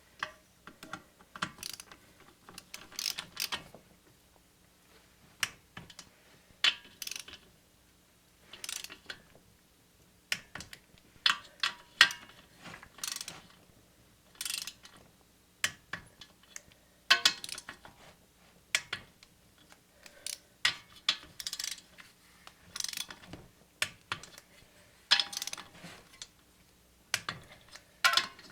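Ratchet torque wrench clicking in short runs of rapid strokes with brief pauses, as the cylinder head bolts of a 10 HP Briggs & Stratton engine are tightened in a crisscross pattern to 180 inch-pounds.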